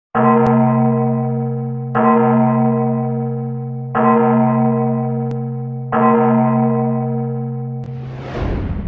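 A deep bell strikes four times, about two seconds apart, each stroke ringing on and slowly fading. Near the end a rushing whoosh swells up and falls away over the last stroke.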